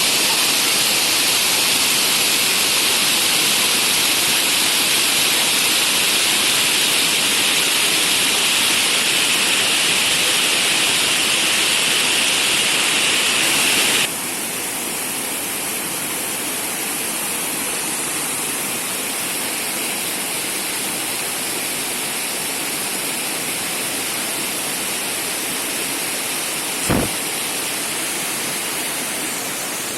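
Rushing water of the Shumka mountain waterfall and stream, a steady roar of noise. About halfway through it drops suddenly to a softer, less hissing rush, and a single brief knock sounds near the end.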